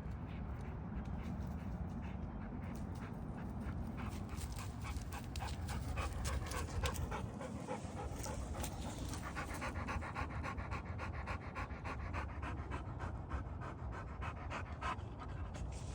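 Rottweiler dog panting rapidly and evenly, breath after breath.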